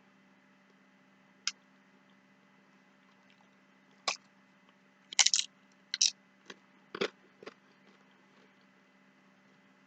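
A person eating crunchy food close to the microphone: a single crunch, then a cluster of sharp bites and crunches in the middle, over a faint steady hum.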